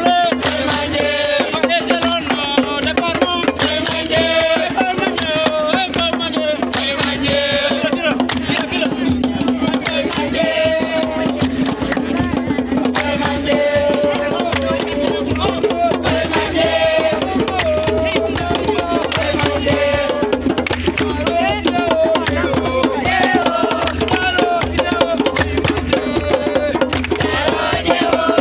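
Live drumming on hand drums with a fast steady beat, under voices singing a song.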